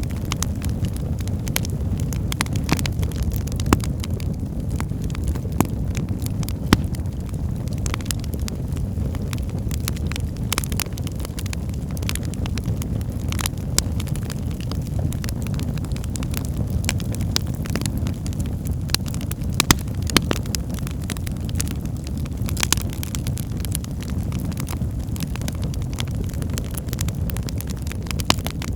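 Wood fire burning in a fireplace: a steady low roar of flames with frequent sharp crackles and pops from the burning logs.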